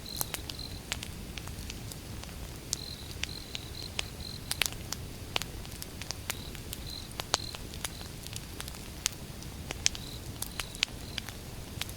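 Wood fire burning: irregular sharp crackles and pops from the burning logs over a steady low rumble, with runs of short, high, same-pitched chirps repeating throughout.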